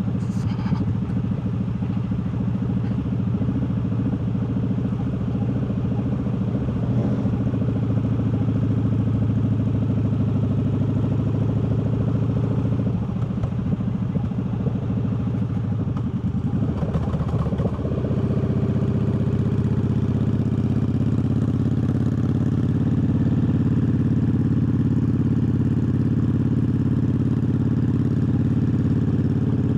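Triumph Bobber's 1200 cc parallel-twin engine running under way on the road. Its note wavers around the middle, then settles into a steady, slightly louder run for the rest.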